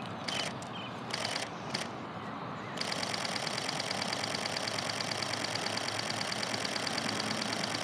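Camera shutter firing in a long continuous burst, rapid even clicking for about five seconds, capturing a bird in flight. A few separate clicks come first, before the burst starts about three seconds in.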